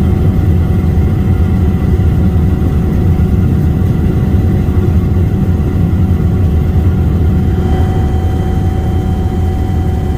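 Sikorsky S-92 helicopter in flight: a loud, steady low drone of its rotor and twin turboshaft engines, with several steady whining tones over it. A higher whine joins about eight seconds in.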